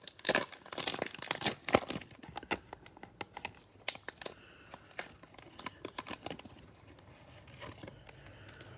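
Cellophane wrapper of a Prizm football cello pack being torn open and crinkled in the hands. The crackling is busiest in the first couple of seconds, then thins out to scattered softer crinkles.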